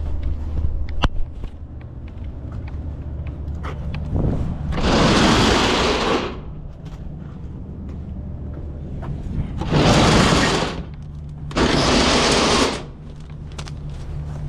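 Truck engine idling with a low steady hum, broken by three loud bursts of hissing air about five, ten and twelve seconds in, each lasting a second or so, as from the truck's air brakes.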